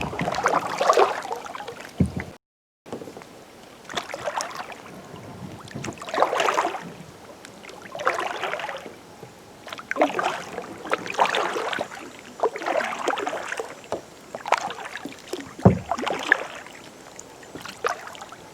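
Kayak paddle strokes splashing into the water in a steady rhythm, one every second and a half to two seconds. The sound cuts out completely for a moment about two and a half seconds in.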